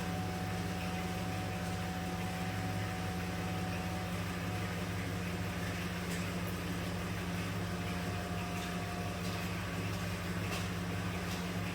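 A 2010 Dodge Grand Caravan's 3.3-litre V6 idling steadily, with a few faint clicks in the latter half.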